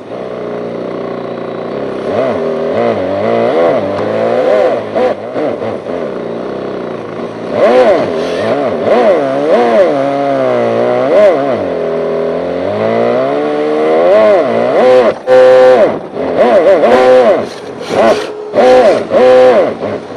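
Homemade electronic engine-sound unit on an RC drift car, playing a synthesized engine note through a small speaker. The pitch rises and falls constantly with the throttle, and in the last few seconds it cuts out and comes back several times in quick blips.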